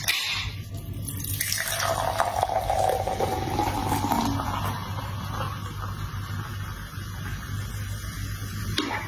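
Liquid pouring or splashing, with a gliding tone about two seconds in, over a steady low hum.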